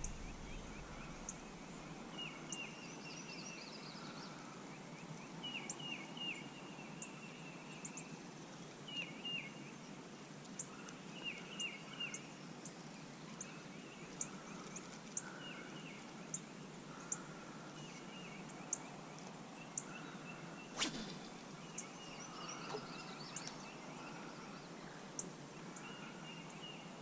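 Birds calling and singing over quiet outdoor background noise, in short repeated chirps and trills. There is one sharp click a little after the twenty-second mark.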